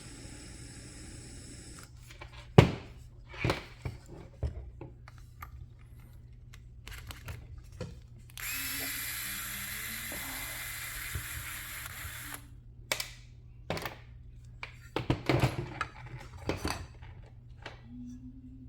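Small handheld torch flame hissing steadily, briefly at the start and again for about four seconds in the middle, heating threadlocked screws to loosen them. Sharp clicks and knocks of small tools and metal parts come in between.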